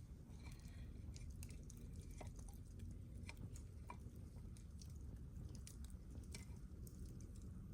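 Campfire wood crackling, with scattered small pops and snaps over a low steady rumble.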